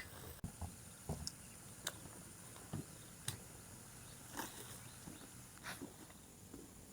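A faint steady insect drone, with scattered light ticks and knocks about once or twice a second at uneven intervals.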